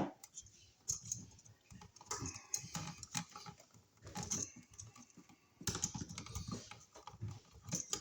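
Irregular light clicking and tapping of small hard parts being handled.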